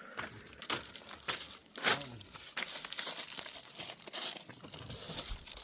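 Irregular crinkling and rustling with scattered sharp clicks, like material being crumpled or handled.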